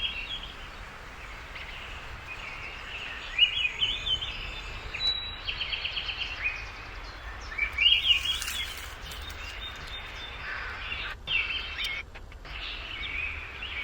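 Wild birds chirping and singing over a steady outdoor hiss: several short rising-and-falling calls, with a quick trill about five seconds in and a louder burst of calls around eight seconds.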